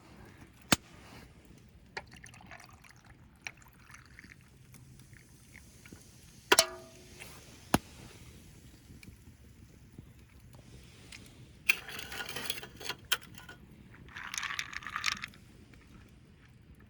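A series of sharp clicks and knocks of objects being handled, one of them about six seconds in with a brief ringing, then two short bursts of rustling noise near the end.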